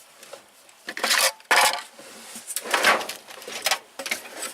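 Loose metal tools and parts clinking and rattling in a tool box drawer as they are handled, in several separate clatters.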